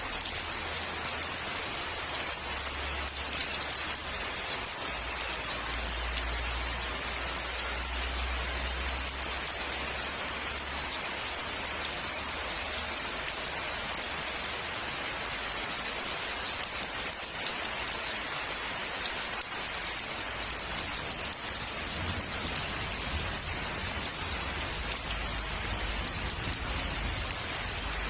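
Steady, even hiss with no rhythm or clear events, strongest in the high range, with a faint low rumble at times.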